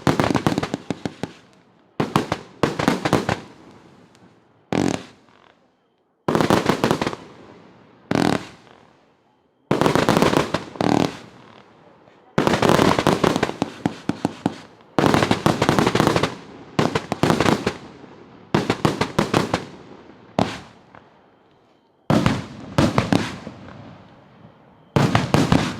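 A 328-shot display fireworks cake firing in rapid volleys: each volley is a quick cluster of sharp shots and bangs lasting about a second, fading into crackle, with about a dozen volleys separated by short pauses.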